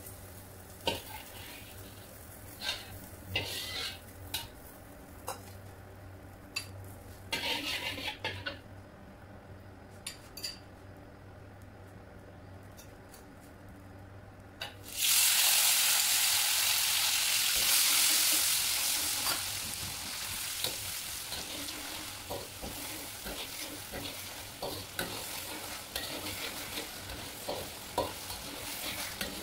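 Metal wok spatula tapping and scraping against a wok in the first half. About halfway through, chopped chili hits the hot oil in the wok with a sudden loud sizzle that eases after a few seconds into steady frying, with the spatula stirring and tapping.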